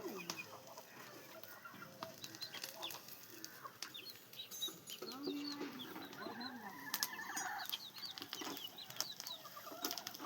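A flock of poultry-farm chickens calling: many short, high peeps overlapping, with a few lower clucks and scattered sharp clicks.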